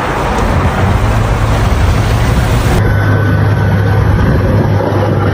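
A vehicle running, a steady low hum under loud rushing noise; the sound changes abruptly about three seconds in.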